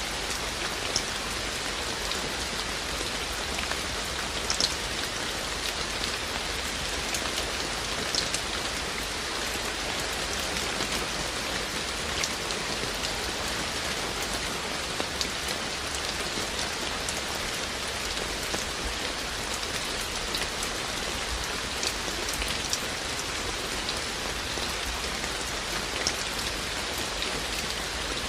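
Steady rain falling, an even hiss with scattered louder drops ticking on nearby surfaces.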